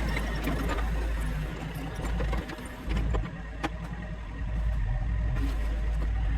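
Heavy equipment engine running steadily, with a few sharp clanks; it eases off briefly about two and a half seconds in, then picks back up.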